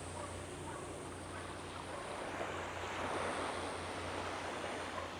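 Small waves washing onto a sandy beach, a steady surf hiss that swells a little about three seconds in.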